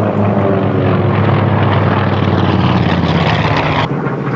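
Propeller airplane engine droning past, its pitch dropping slightly. The sound breaks off abruptly near the end into a quieter, different drone.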